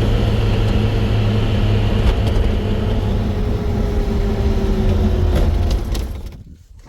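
A vehicle engine running steadily, its pitch sagging slightly, then stopping about six seconds in.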